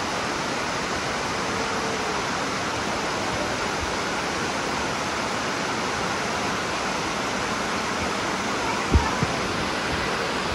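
Dunn's River Falls cascades rushing: a loud, steady wash of falling water. About nine seconds in come two brief thumps.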